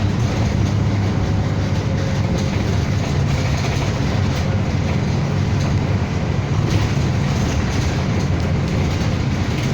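City bus heard from inside while driving between stops: a steady low engine drone with road and body rumble.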